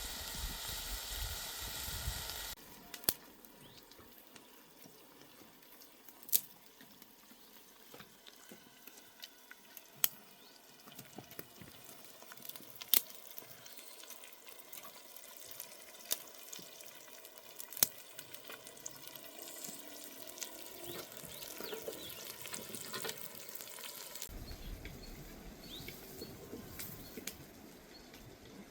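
Food sizzling in a hot pan, cutting off about two seconds in. Then a quiet stretch with a few sharp single clicks a few seconds apart, and a low rumble that comes in near the end.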